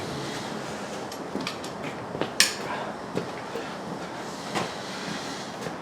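Scattered light metallic clicks and knocks from hand tools and parts during work on a car's front suspension, over a steady background hiss. The sharpest knock comes about two and a half seconds in.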